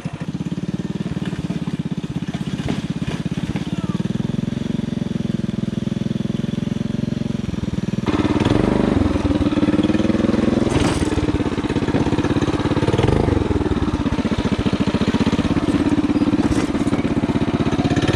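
Coleman CT200U mini bike's small single-cylinder four-stroke engine running, its pitch rising and falling as the revs change. About eight seconds in it suddenly becomes louder and rougher.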